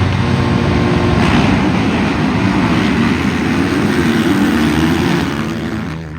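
A pack of motocross bikes running flat out together, many engines at once, then fading away sharply near the end as the field moves off.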